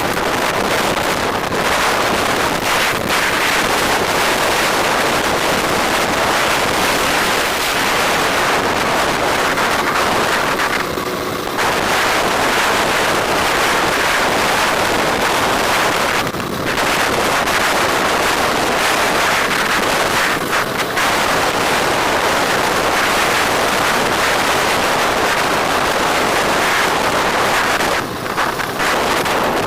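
Wind rushing steadily over the microphone while riding a bike on the road, with traffic noise mixed in. It eases briefly about 11 seconds in, again around 16 seconds and near the end.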